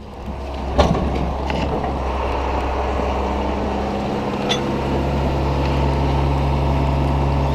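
Heavy farm machinery running steadily with a low engine-like hum. The hum swells in over the first second and holds, with a sharp knock about a second in.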